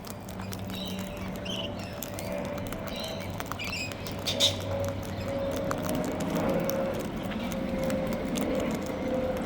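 Birds feeding in a bucket: a steady run of light clicks and taps of beaks working at food, with a few soft chirps in the first half and one louder, sharper sound about four and a half seconds in. A steady low hum runs underneath.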